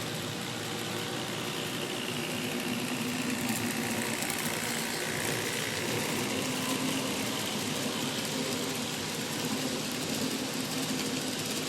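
A steady engine running sound with a hiss over it, and a high tone that glides down partway through.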